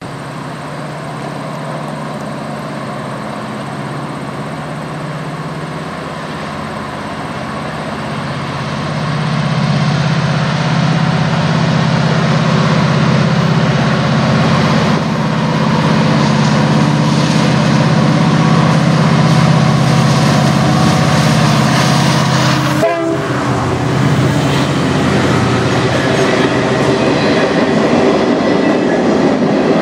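Three CN diesel freight locomotives approaching with a steady low engine drone that grows louder about nine seconds in. After a sudden change near the end, freight cars roll past with wheel clatter and rumble.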